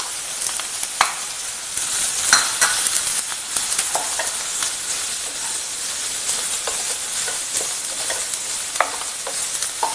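Chopped garlic, green chillies and curry leaves sizzling steadily in hot oil in a nonstick pan, stirred with a wooden spatula that scrapes and taps against the pan now and then.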